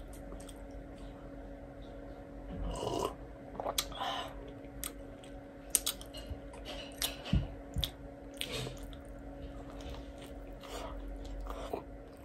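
Close-up eating sounds: a toasted sandwich bitten into and chewed, with short crisp crunches. There is a low knock about seven seconds in, which fits a glass being set down on the table, over a faint steady hum.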